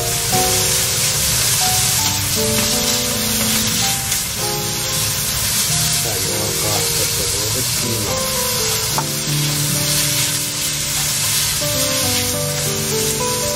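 Sliced pork sizzling in a hot frying pan as a metal spatula stirs and turns it.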